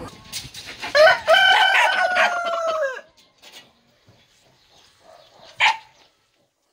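Rooster crowing once, starting about a second in with a drawn-out call of about two seconds that falls slightly at the end. A short, sharp call follows near the end.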